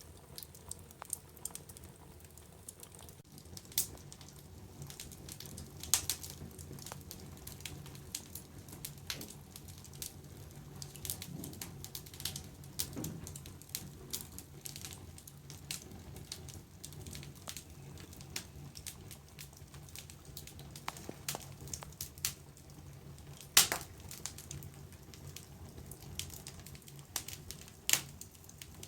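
Wood fire in a fireplace crackling, with irregular sharp pops scattered throughout, a few of them much louder, over a faint steady low hum.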